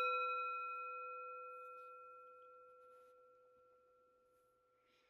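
Meditation bell ringing out with several clear layered tones, slowly fading away to nothing over about four seconds. It marks the start of a silent sitting meditation.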